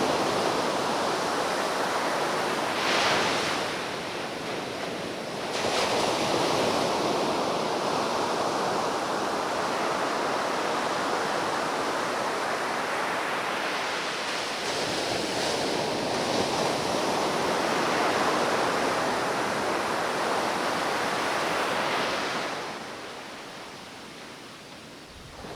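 Ocean surf breaking and washing up a beach in a swell: a steady rushing noise that swells and eases, fading down near the end.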